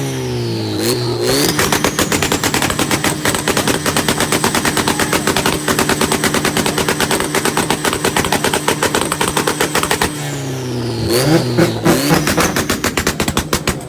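Car engine revved hard and held at the rev limiter, making a rapid stuttering rattle of exhaust pops. Twice, near the start and about ten seconds in, the revs drop briefly and climb back, and a high whine falls and rises with them.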